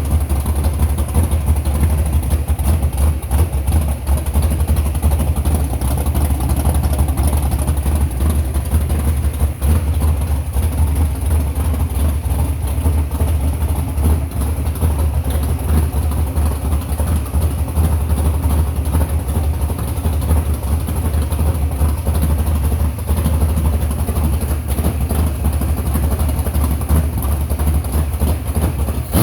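489 cubic-inch big-block V8 with a swapped cam and a 4500 Dominator carburetor, idling steadily.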